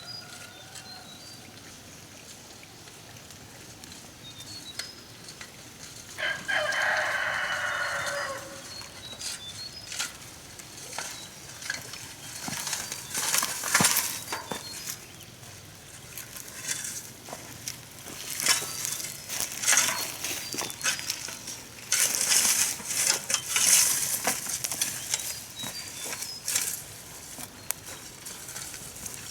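A rooster crows once about six seconds in, a two-second crow that falls in pitch at the end. Later comes a long run of crackling, rustling clicks, with faint high bird chirps throughout.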